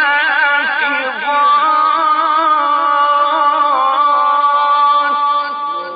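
A male reciter's voice in melodic (tajwid) Quran recitation, drawing out the end of a word in one long breath. It opens with a quick ornamented run, then holds a long steady note that steps down slightly about four seconds in and fades near the end. The sound is somewhat dull, as on an old 1954 recording.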